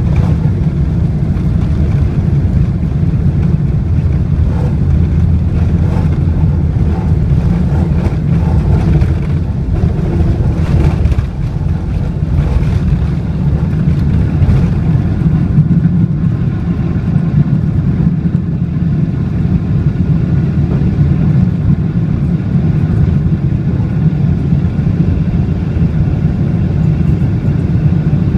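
Boeing 777-300ER's GE90-115B turbofan engines at takeoff thrust: a loud, steady, low rumble. Scattered knocks sound in the first half.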